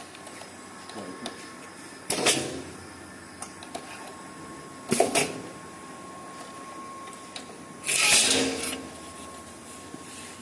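Three short bursts of mechanical clattering, about three seconds apart, the last one the longest and loudest, over a faint steady hum.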